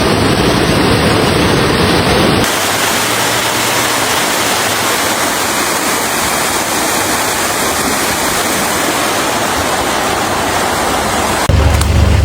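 Rushing floodwater, a loud steady wash of noise that changes abruptly about two seconds in. A deep rumble comes in near the end.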